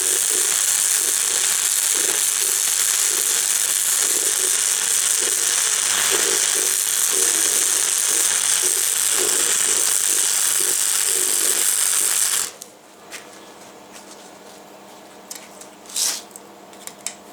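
Electric arc welding on steel, a steady crackling hiss with a low mains buzz under it, as a bead is run joining a mild steel stake to a piece of truck axle. The arc cuts off abruptly about twelve seconds in, followed by a few light clicks and a short knock.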